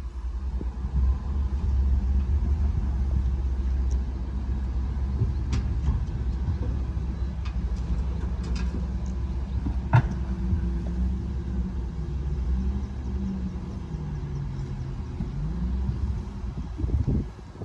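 Diesel engine of a Shantui DH17-C2 crawler bulldozer running under load with a steady low rumble, its pitch rising and falling in the last few seconds as the load changes. A single sharp metallic clank about ten seconds in. The rumble cuts off suddenly near the end.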